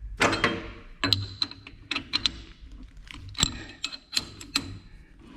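Irregular sharp clicks and clanks of metal tools and parts being handled, a dozen or so at uneven spacing, some with a short ring.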